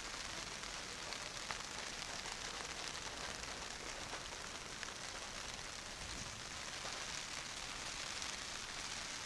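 Rain pattering on a greenhouse's mesh-reinforced plastic cover, heard from inside as a steady, even patter.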